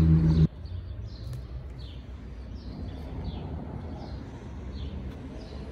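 A small bird chirping over and over in short downward-sliding calls, roughly one or two a second, over a low steady rumble.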